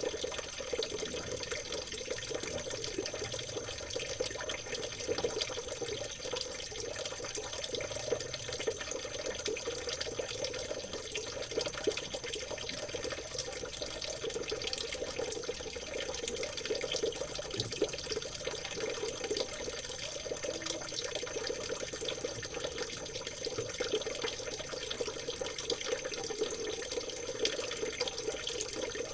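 Trickling river water, a steady babbling splash made of many tiny droplet clicks, with a thin steady high tone underneath.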